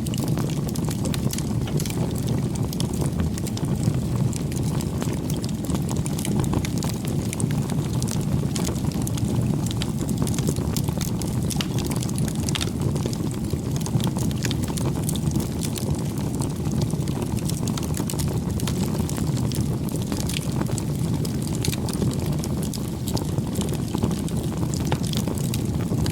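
Campfire burning: a steady low rush of flames with frequent, irregular small crackles and pops from the burning wood.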